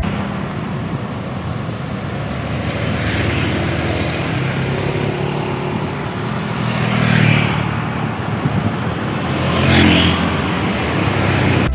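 Road traffic on a highway: a steady engine hum with vehicles passing, the rush of each pass swelling about three, seven and ten seconds in.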